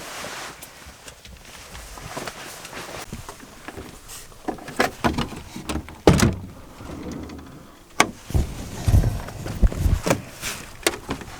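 A van door being worked: a run of clicks and knocks, the loudest about six seconds in, followed by a few dull thumps.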